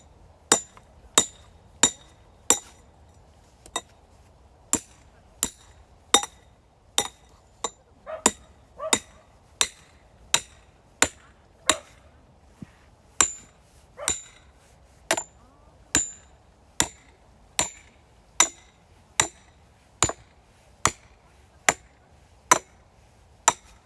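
A hand tool striking firewood again and again in a fast, steady rhythm, about three blows every two seconds, each a sharp crack with a short metallic ring. There is a short break about three seconds in.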